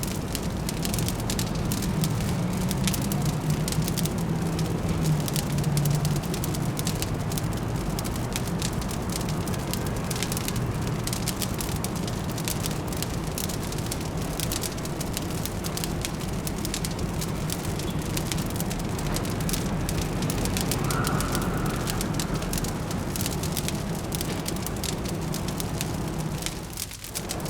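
Fireplace fire crackling with frequent small pops, over a steady low hum of distant city traffic. A brief faint tone sounds about three-quarters of the way through.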